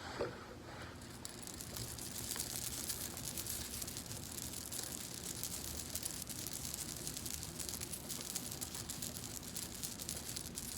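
Hands rubbing oiled hair close to the microphone: a dense, steady crackling and rustling that builds up about two seconds in.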